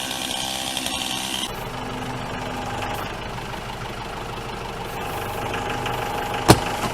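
An engine idling, its sound changing abruptly about a second and a half in, with one sharp knock near the end.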